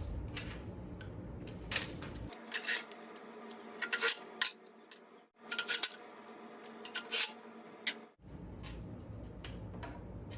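Sharp metallic clicks and clinks of hand tools and screws being handled, irregular and spaced a second or so apart, while the rear motor's screws are put back in with a T30 Torx bit.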